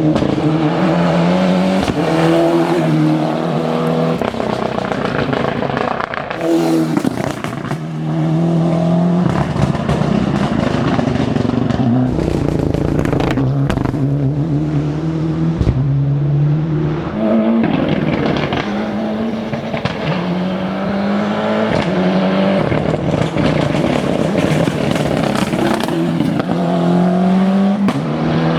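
Ford Escort RS Cosworth rally car's turbocharged four-cylinder engine driven hard: the revs climb and drop sharply again and again as it accelerates through gear changes.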